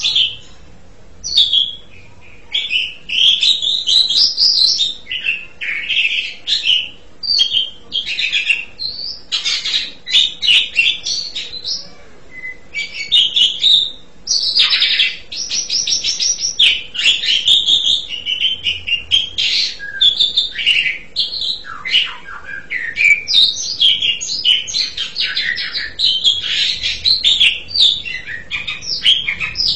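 Asian pied starling (jalak suren) singing: a long, nearly unbroken run of varied chattering, whistled and rasping notes.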